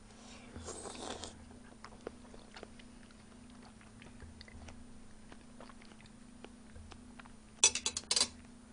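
Close-mouth eating sounds of a soft, juicy yellow peach half: a wet slurping bite about a second in, then quiet chewing with small moist ticks. A short cluster of sharp clicks near the end.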